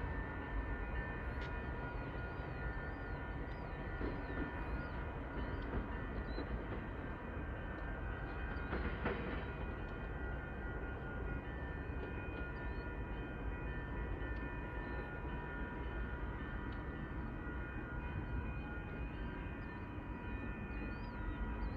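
Oncoming train's steady low rumble, with level-crossing signal bells ringing steadily over it. A brief louder burst comes about nine seconds in.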